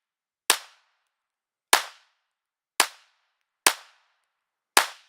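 Five 9mm pistol shots from a Glock 43, fired at an even pace about a second apart, each a sharp crack with a short fading tail.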